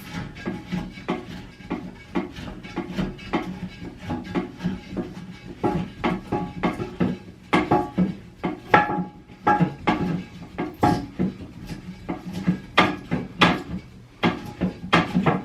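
Irregular clicks and knocks, several a second, from hard plastic parts and a porcelain toilet tank being handled as the fill valve (water feed) is worked loose and removed.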